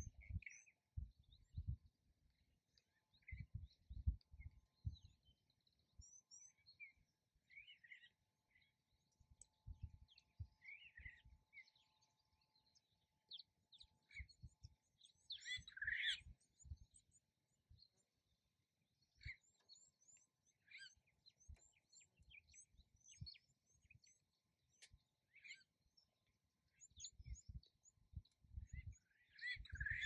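Faint, scattered bird chirps and calls, short high notes in loose clusters that thicken midway and again near the end, with low rumbles coming and going.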